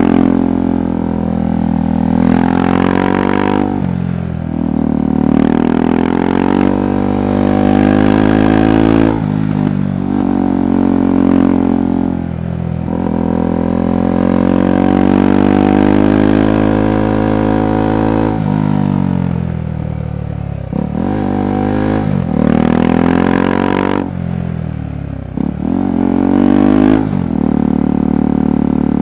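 KTM 390 Adventure's single-cylinder engine and exhaust under way, the pitch climbing under throttle and dropping sharply several times as the rider shifts or rolls off, with one longer steady pull near the middle.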